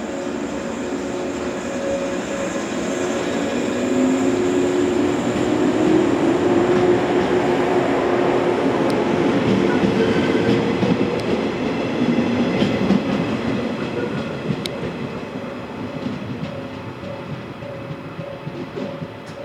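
Electric train set (Okayama depot's B17) moving through the station: its running noise builds for several seconds, holds at its loudest, then fades away, with humming tones that glide in pitch as it goes by.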